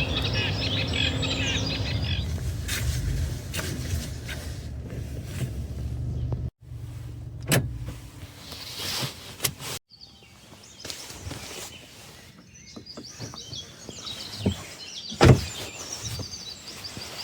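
Small birds chirping over a low, steady rumble, then quieter outdoor ambience with a few sharp clicks and more bird chirps near the end. The sound cuts out abruptly twice.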